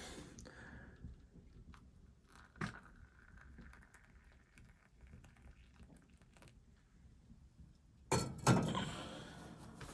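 Objects being handled at close range: a single sharp knock about two and a half seconds in, then a louder cluster of knocks and clattering about eight seconds in, with faint small clinks in between.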